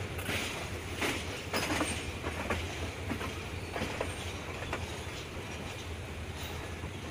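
Passenger train rolling through a station yard, heard from inside the carriage: its wheels click sharply over rail joints and points at uneven intervals over a steady low rumble, with fewer clicks after about five seconds in.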